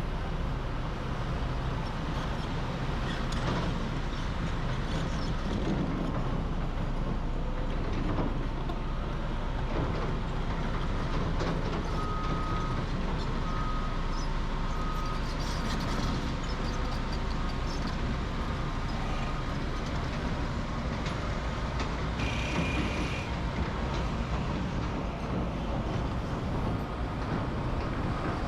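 Heavy construction machinery running steadily, a low diesel engine drone mixed with mechanical clatter. About twelve seconds in come three short high beeps, and a brief hiss with a high squeal follows about ten seconds later.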